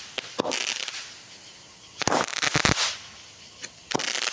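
Ground fountain firework burning: a steady high hiss with three bursts of rapid crackling, near the start, about two seconds in, and near the end.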